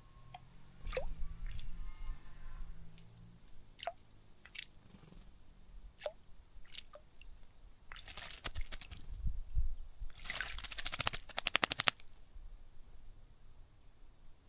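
Bird bathing in a shallow bird bath: scattered drips and flicks of water, then two bursts of rapid wing-splashing about eight and ten seconds in, the second lasting about two seconds.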